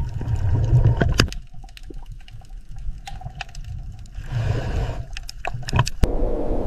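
Underwater-style water sound: a low churning rumble with scattered clicks, swelling twice, over a faint steady tone.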